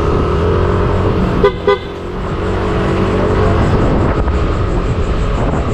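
Two quick beeps of the scooter's aftermarket PIAA horn about a second and a half in, over the running of the Yamaha Aerox's engine and low wind rumble as the scooter speeds up.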